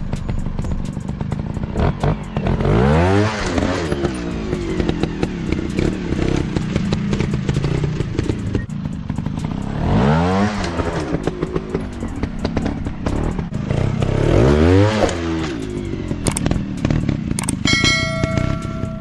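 Off-road dirt bike engine running under load with clatter, revving up sharply three times, several seconds apart.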